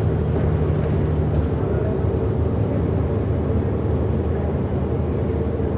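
Steady drive noise of a 2008 Orion NG hybrid-electric bus, heard from inside the cabin: a low rumble with a steady hum that fades about a second and a half in.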